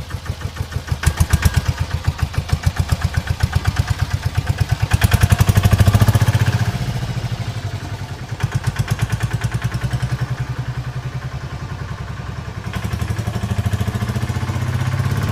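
Tractor engine chugging steadily at about ten beats a second, swelling louder around six seconds in and again near the end.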